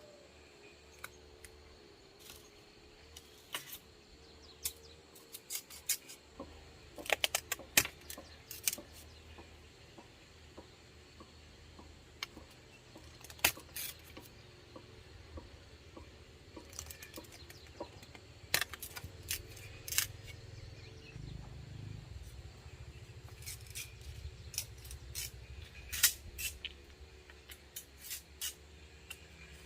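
Irregular sharp clicks and knocks, some in quick clusters, over a faint steady hum.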